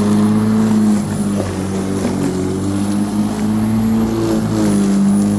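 Black & Decker 42 cm 1800 W electric lawnmower running steadily while cutting wet grass, its motor hum sagging slightly in pitch once or twice as it takes load.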